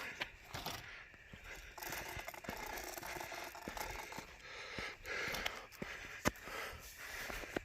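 A cyclist breathing hard while pedaling uphill, with scattered clicks and rattles from the bicycle.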